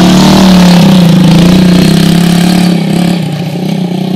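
Small off-road engine running steadily at a constant speed, close and loud, easing off slightly in the second half.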